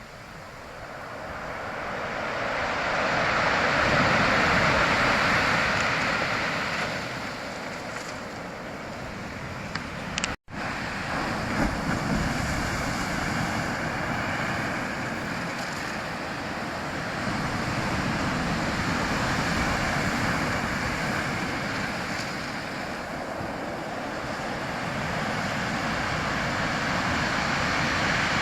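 Rushing water, an even noise that swells and eases every several seconds, with a brief dropout about ten seconds in.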